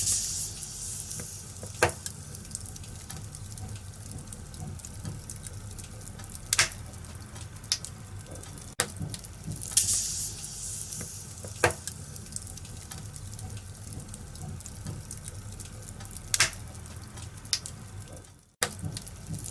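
Wood fire in a fireplace crackling: a steady low rumble and hiss of flames broken by sharp pops every few seconds, with a couple of hissing flare-ups. The sound cuts out for a moment near the end.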